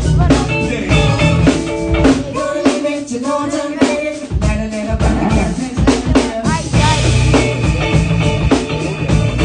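Live band music with a drum kit keeping a steady beat under other instruments; the bass end drops away for a couple of seconds in the middle, then comes back in.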